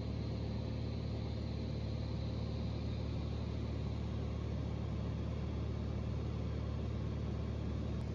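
Cessna 182's engine and propeller droning steadily in level cruise flight.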